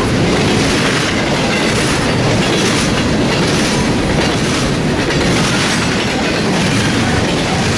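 Train passing close by: a steady, loud rumble of wheels on the rails with a repeating clickety-clack.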